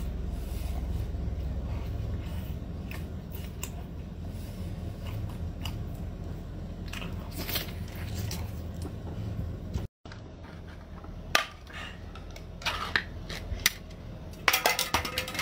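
Close-up chewing and biting on canned octopus, soft wet clicks over a low steady hum. After a sudden break about ten seconds in, sharp clicks and a quick clatter of a pull-tab tin lid being pulled open and lifted off, loudest near the end.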